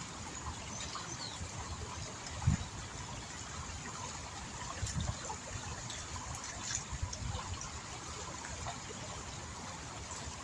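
Flowing water of a small river, a steady trickling rush, with low rumbling underneath and one short thump about two and a half seconds in.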